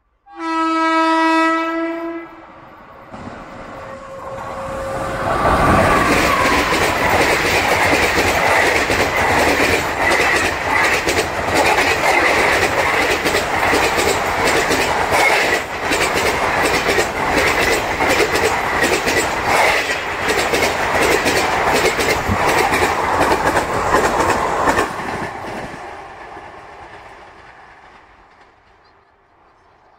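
A train horn blows once, steady, for about two seconds. Then an Indian Railways passenger train of sleeper-class coaches passes close by at speed, its wheels clattering rapidly over the rail joints for about twenty seconds before fading as it moves away.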